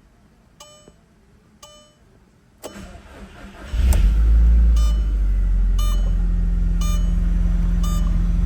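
2002 Audi TT 225 quattro's 1.8-litre turbocharged four-cylinder started from cold: the starter cranks for about a second, the engine catches with a brief flare in revs, then settles into a steady, little high cold idle. An electronic chime beeps about once a second throughout.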